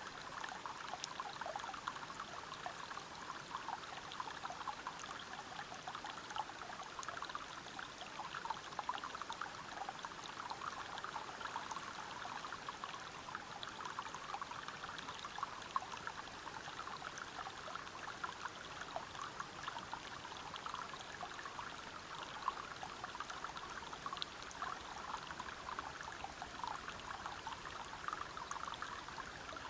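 Water from a forest river and waterfall flowing and splashing over rocks: a steady rush with many small splashes and trickles through it.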